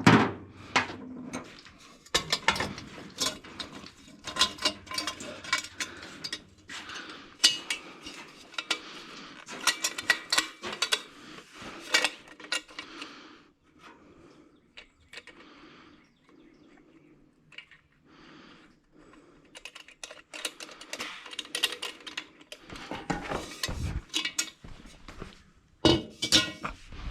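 Metal hand tools clinking and clanking: irregular metal-on-metal clicks and knocks as a socket extension and wrenches are handled and worked. There is a quieter stretch in the middle.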